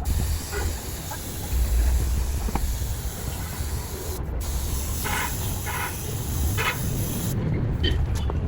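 Steady spraying hiss that breaks off for a moment about four seconds in and stops about a second before the end, over a low rumble.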